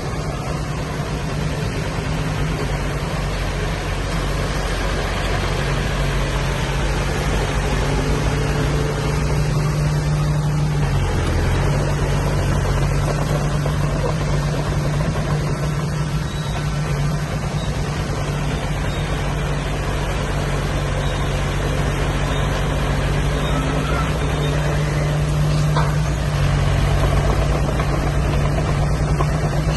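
Heavy diesel engine of earthmoving machinery running steadily, its note briefly dipping about eleven seconds in.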